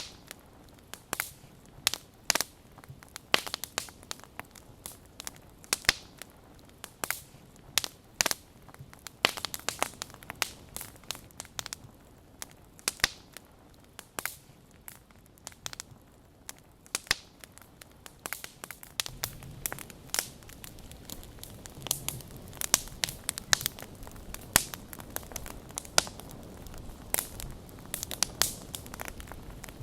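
Wood fire crackling, with irregular sharp snaps and pops over a faint hiss. From about two-thirds of the way through, a low rumble rises underneath.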